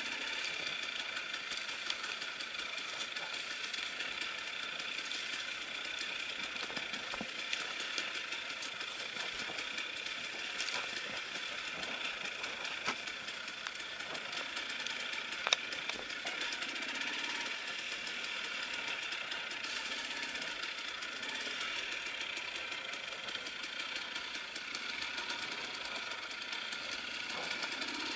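KTM enduro motorcycle engine running steadily, without rises or falls in revs, with a few sharp clicks, the loudest about halfway through.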